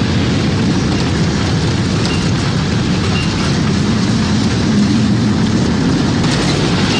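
Tornado sound effect: a loud, steady low rumble of wind with a thinner hiss above it, swelling slightly about five seconds in.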